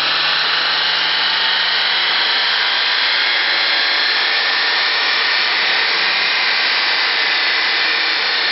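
Mercedes-Benz A250's turbocharged 2.0-litre four-cylinder, fitted with an aftermarket cold air intake, pulling at full throttle on a chassis dynamometer. It is heard as a loud, even rushing noise of engine, intake and rollers.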